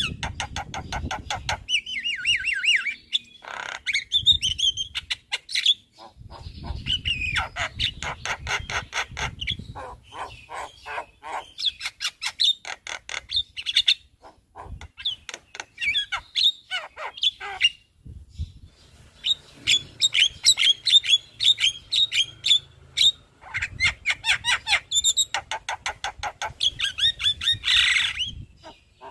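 Javan myna (jalak kebo) singing a long, varied song of fast chattering runs of repeated notes and squeaky whistles, broken by a few short pauses.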